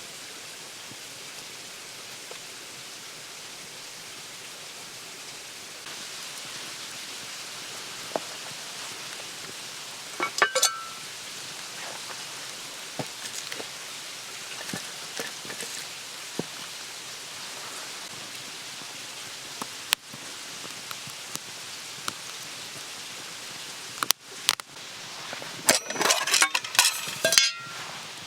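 Metal camp cookware clinking with short ringing tones: a brief cluster about ten seconds in and a longer run of clinks near the end, over a steady hiss with scattered small crackles.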